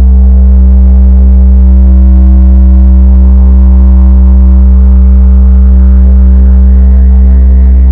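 Ambient meditation drone: a steady, very deep sustained tone with layered overtones above it and no beat, brightening slightly near the end.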